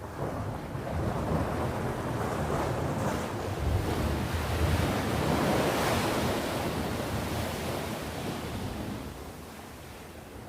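Sea waves breaking and washing up the shore: the surf swells to a peak a few seconds in and then recedes, with wind on the microphone.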